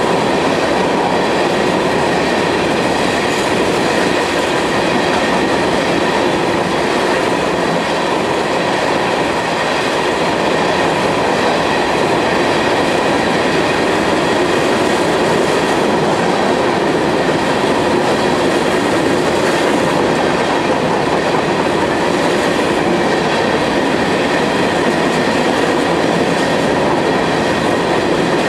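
A freight train's open-top coal cars rolling past close by: steel wheels on rail make a loud, steady rolling noise, with a faint steady high whine above it.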